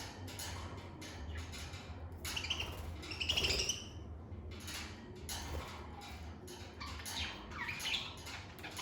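Lovebirds chirping and squawking in short, repeated high calls, loudest about three seconds in.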